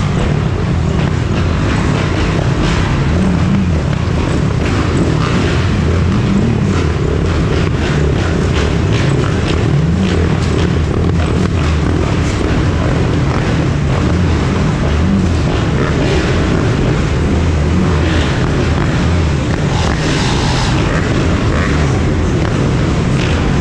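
Dirt bike and ATV engines running in a slow-moving pack, the rider's own dirt-bike engine closest, with engine pitch rising and falling a little as the throttle is worked.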